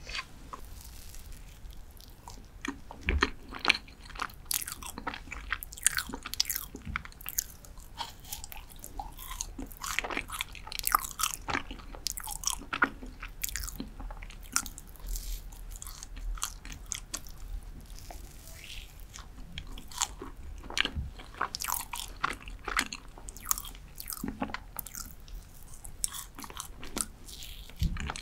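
Close-miked chewing of glazed dark chocolate cheesecake, with many short, wet mouth clicks and smacks.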